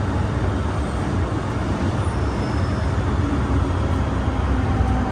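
MTR Island Line M-Train running on the rails: a steady, loud low rumble with a faint motor whine that falls slightly in pitch near the end.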